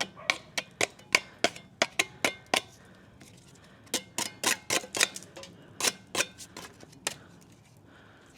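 An irregular series of sharp taps and clacks from hand tools striking hard surfaces, with a brief lull about three seconds in and another near the end.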